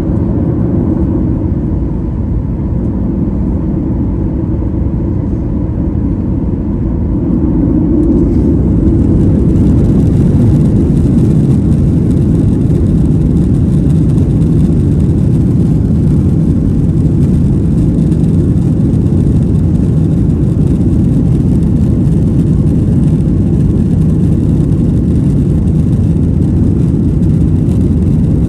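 Jet airliner engines and a heavy low rumble heard from inside the cabin, growing louder and hissier about eight seconds in, then holding steady.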